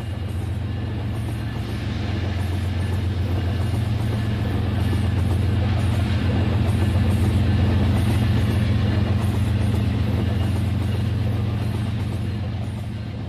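Toy train running along its track: a steady motor hum with a fast rattle, growing louder toward the middle and easing off near the end.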